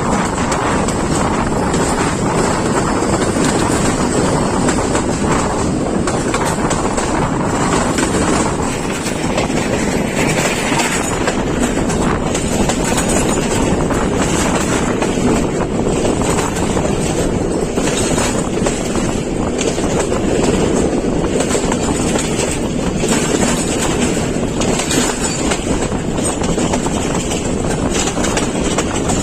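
Passenger train running along the track with a steady, loud rumble of wheels and carriages.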